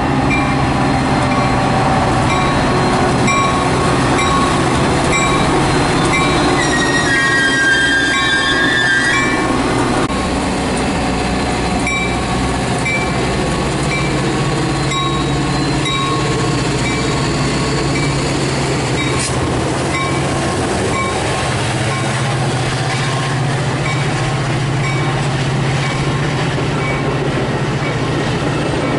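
Metra commuter train arriving on the BNSF Line: a steady, loud run of wheel-and-rail noise with regular clicks. A brief high-pitched wheel squeal comes about seven seconds in.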